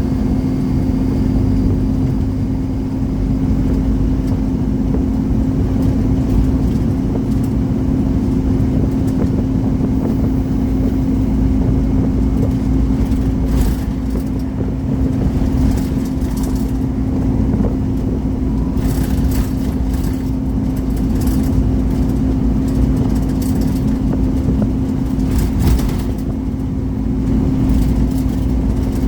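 Scania Omnicity single-deck bus driving along, heard from inside the cabin: a steady low engine and road rumble with a constant hum, and a few brief rattles.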